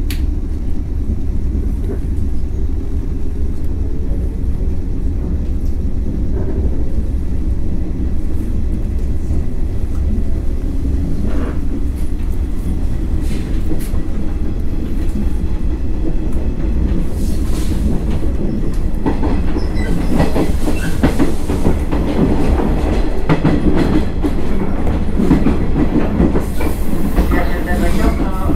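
Inside a JNR 113 series electric train pulling out of a station: a steady rumble with a motor whine rising in pitch as it picks up speed. Wheels click-clack over rail joints, more busily in the second half.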